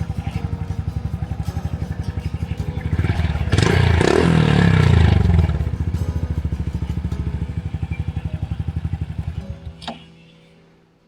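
Honda Super Cub C125's single-cylinder four-stroke engine idling with an even pulse through a Yoshimura GP-MAGNUM Cyclone exhaust. It is revved up and back down briefly a few seconds in, settles back to idle, and is switched off near the end.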